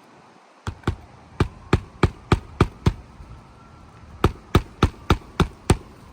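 A hammer driving roofing nails into asphalt shingles: two runs of sharp, even blows at about three a second, eight and then six, with a short pause between them.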